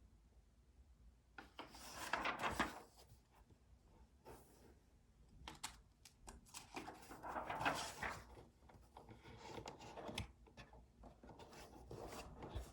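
Desk-work noises: paper and writing things rustling and scraping in two longer swells, about two seconds in and again around seven to eight seconds in, with scattered light clicks and taps between them.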